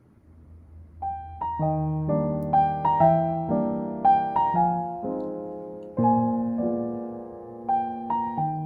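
Background piano music: a gentle piano melody with chords that fades in during the first second, the notes struck and left to ring and decay.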